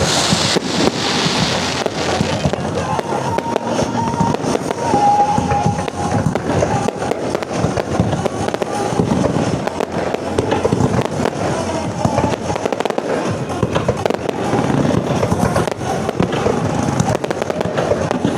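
Aerial fireworks bursting over and over in a dense volley, with a loud crackling hiss in the first couple of seconds.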